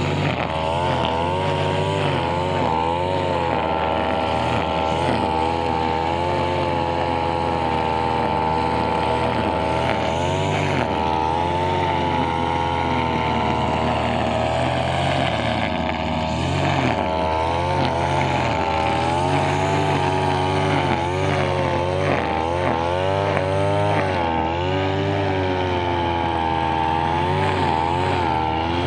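Brushcutter engine running at high speed throughout, its pitch wavering up and down as the cutting head trims grass.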